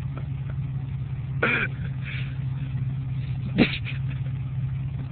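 Pickup truck engine idling steadily, with a short voice sound about a second and a half in and a sharp knock a little after halfway.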